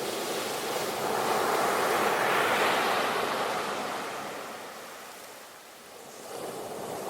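Sea waves breaking and washing on the shore: a wash that swells to a peak about two to three seconds in, fades away, and starts to build again near the end.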